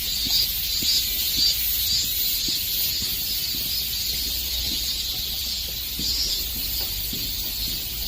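Chorus of cicadas: a loud, shrill buzzing that swells and fades about twice a second, over a low steady rumble.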